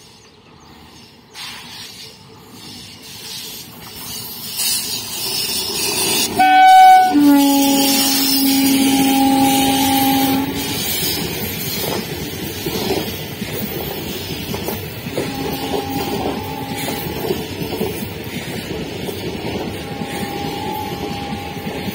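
Indian Railways electric locomotive approaching with a rising rumble. About six seconds in it gives a short horn note, then a long two-tone horn blast of about three seconds. Its passenger coaches then pass with a steady rumble of wheels on rail, and two fainter horn notes come later.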